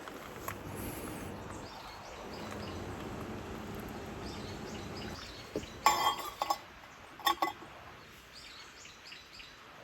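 A few sharp metallic clinks, a quick cluster about six seconds in and two more a little after seven seconds, over a quiet outdoor background with faint bird chirps.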